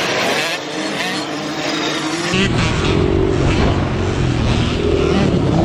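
Small kids' dirt bike engines revving on a motocross track, their pitch rising and falling with the throttle. A little over two seconds in, the sound switches abruptly to a louder, closer engine with a heavy low rumble.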